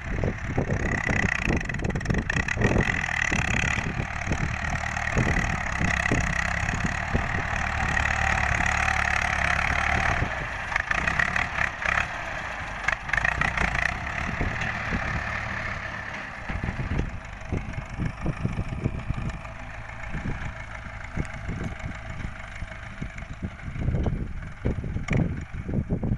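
Ford 6600 tractor's diesel engine running steadily while working a rice field, louder for the first ten seconds or so and then easing back. Wind buffets the microphone.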